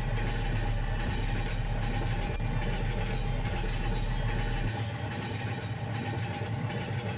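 A vehicle engine running steadily with a low hum. About four and a half seconds in, its deepest rumble stops and the sound drops a little.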